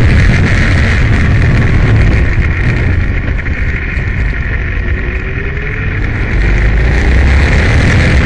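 Aprilia Tuono motorcycle running hard at speed, heavy wind noise on the microphone. The engine eases off for a few seconds mid-way, then comes back on the throttle near the end.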